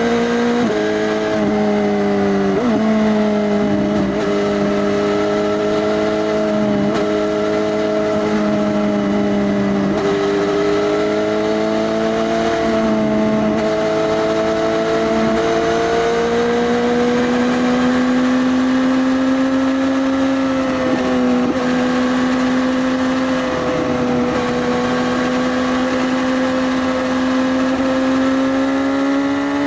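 2018 Suzuki GSX-S1000's inline-four through an Arrow Race Tech full exhaust system with the dB killer removed, running at steady riding speed. The note dips and jumps briefly several times in the first half, then holds steady with a slow rise in pitch.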